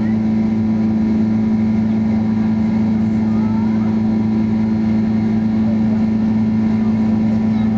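Cabin noise inside a Boeing 767-300 in flight: the steady drone of the engines and airflow, with a constant low hum.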